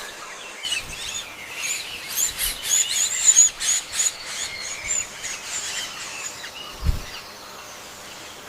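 Small birds chirping: a rapid run of short, high chirps that thins out after about five seconds, with a single low thud near the end.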